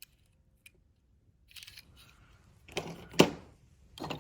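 Small die-cast metal toy cars being handled and rummaged through: a few light clicks and some rustling, then two sharp clacks a little under three seconds in, the second one louder.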